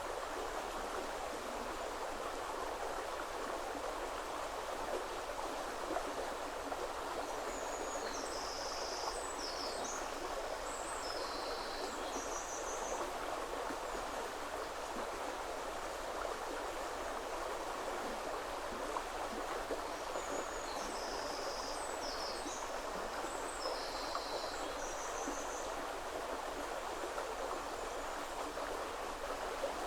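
River water flowing steadily in a continuous rushing hiss. A small songbird sings a high phrase of several seconds twice, about seven seconds in and again about twenty seconds in.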